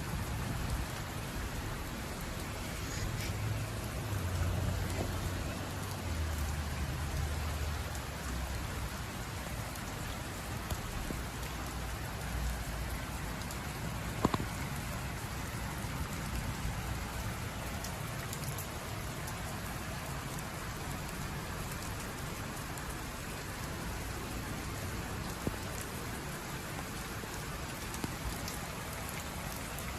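Steady rain falling hard, with a low rumble for a few seconds near the start and a single sharp knock about halfway through.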